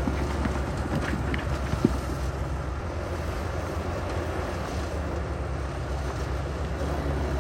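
Bulldozer's diesel engine running steadily with a deep rumble, with a few light clanks and one sharp knock about two seconds in.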